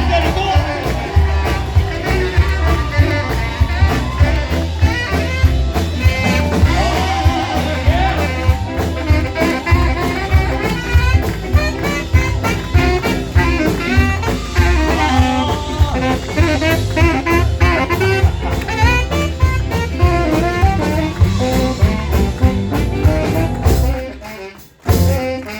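Swing jazz played by a band, with a steady beat and a melody line over it; the music cuts out briefly near the end and then comes back.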